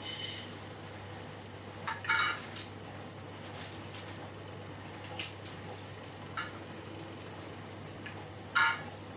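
Canaries giving short single chirping calls, six in all, a second or two apart, over a steady low hum.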